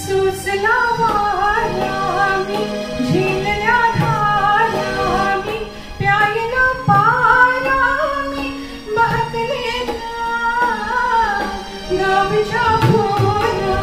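A woman singing a Marathi song, with instrumental accompaniment.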